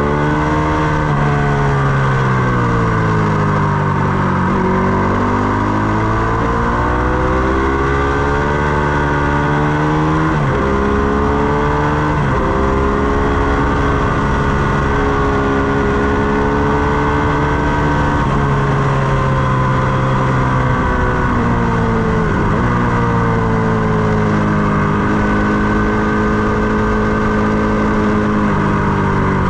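Ducati Panigale 899's Superquadro V-twin engine heard onboard at track speed, its pitch climbing and falling through gear changes with several sharp drops, over steady wind rush.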